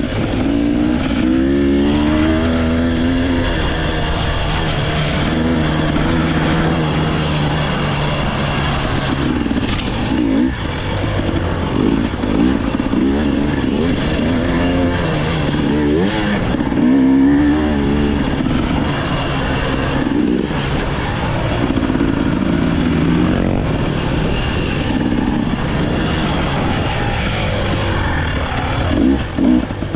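Off-road motorcycle engine running hard, its pitch rising and falling again and again as the throttle opens and closes and the gears change.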